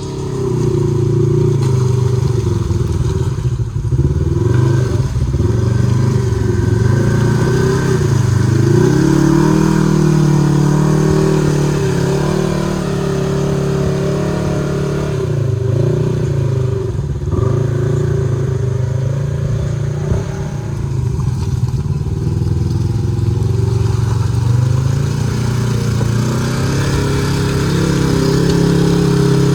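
Side-by-side UTV engine running hard and revving up and down repeatedly, its pitch dipping and climbing several times.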